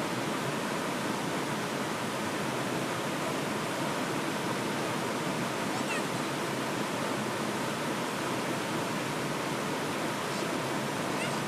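Steady, even rushing of water, the unbroken noise of heavy rain and a riverside torrent.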